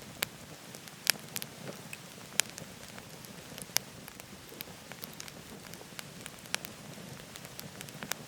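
Firewood burning in a wood stove, crackling with irregular sharp pops, the strongest about a second, two and a half and four seconds in, over a steady rushing noise.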